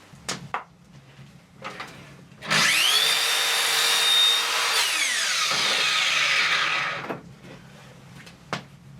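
An electric power tool spins up to a steady whine, then drops in pitch as it works the material, with a rough cutting noise until it stops about seven seconds in. A few handling clicks come before and after it.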